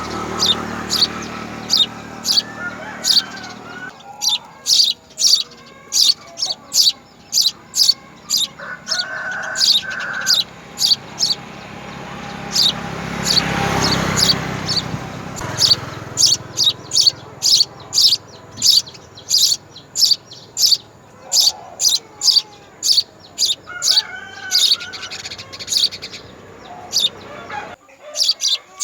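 House sparrow chirping over and over, short sharp chirps at roughly one to two a second. A low hum under the first few seconds stops, and a rumble swells and fades around the middle.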